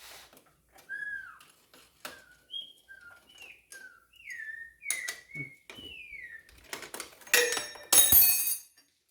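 A run of short whistled notes, each sliding down in pitch, over scattered clicks of tools on metal, then a loud clatter of metal parts about seven seconds in.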